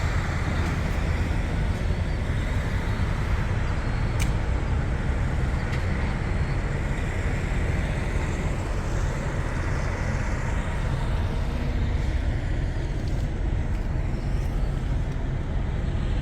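Steady low rumble of vehicle and road traffic noise, with one faint click about four seconds in.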